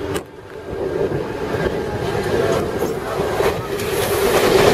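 Suburban electric local train running on its tracks, heard from aboard: a steady rumble of wheels on rail. The sound dips briefly just after the start, then grows louder with a rushing hiss near the end as a second local train passes close alongside.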